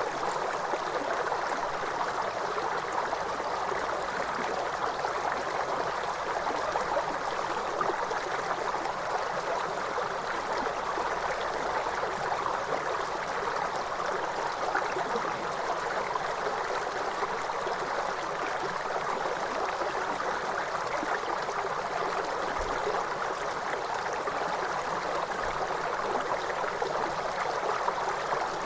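Waterfall water rushing in a steady, unbroken hiss, with most of its sound in the middle range and no change in level.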